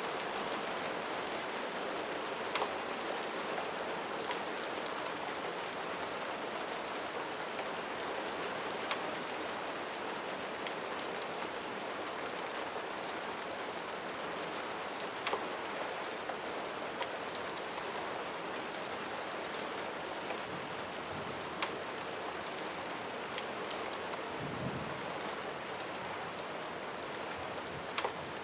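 Steady rain falling on a surface, an even hiss with scattered sharp drip-like ticks.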